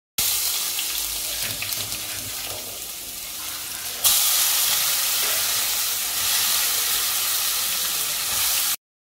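Hot oil sizzling in a non-stick wok as chopped aromatics fry, then marinated beef cubes frying in the oil. The sizzle jumps louder about four seconds in and stays steady.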